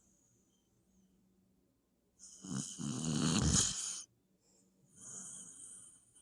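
Puppy snoring in its sleep: one long, loud snore starts about two seconds in and lasts nearly two seconds, then a softer, breathy snore follows near the end.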